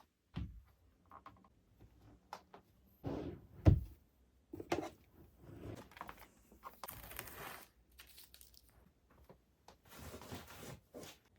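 Indoor handling sounds: a string of light knocks and clicks with one loud thump about four seconds in, and brief rustling later on.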